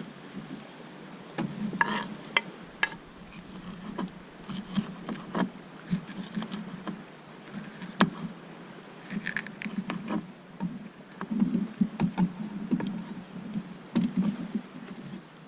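Kayak being paddled: paddle splashes with irregular knocks and clicks of the paddle and gear against the hull.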